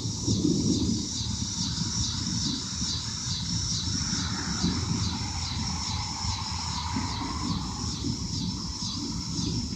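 An insect chirping high and rhythmically, about two pulses a second, over a low, steady rumble of rain and wind.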